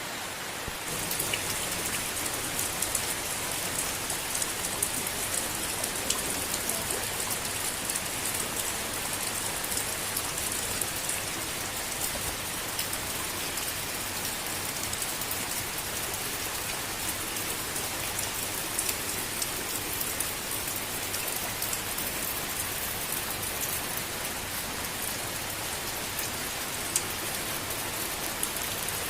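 Gentle rain falling steadily, with a dense hiss and many separate drops heard as small ticks; it steps up a little louder and brighter about a second in, then holds even. No thunder.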